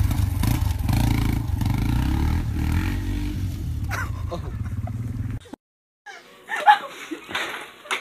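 Small dirt bike's engine running hard and revving, with a clatter about four seconds in as the bike goes down in the grass. The engine sound cuts off suddenly, followed by a few short knocks and clatters.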